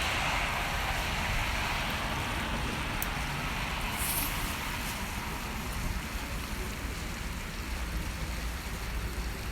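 Steady hiss of wind and rain on the microphone over a low rumble of distant cars on a wet race track, with no clear engine note.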